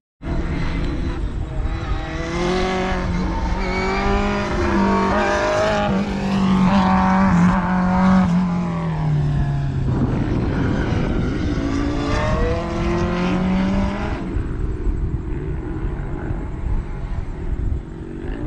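A race car's engine pulling hard, its pitch climbing in steps as it shifts up through the gears. It eases off about nine seconds in, pulls again, and fades into the distance after about fourteen seconds.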